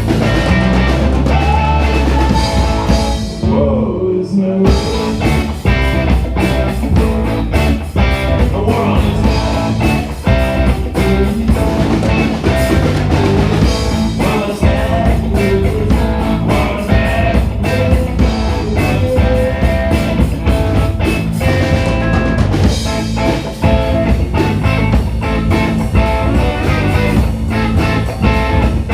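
Live band playing a funky rock number: electric guitar over bass and a drum kit keeping a steady beat, with a short break about four seconds in.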